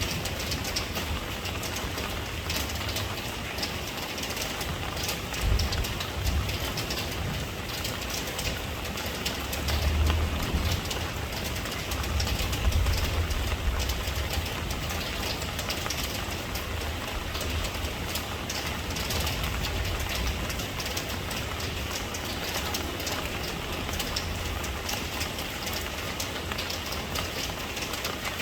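Steady rain falling, a dense hiss of drops with a low rumble underneath that swells a few times.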